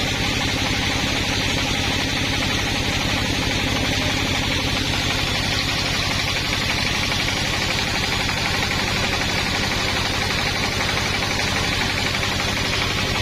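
An engine running steadily at an even speed, without changing pitch.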